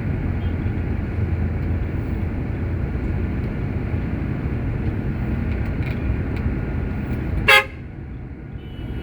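Truck engine running steadily, with one short horn toot about seven and a half seconds in, after which the engine sound drops for a moment.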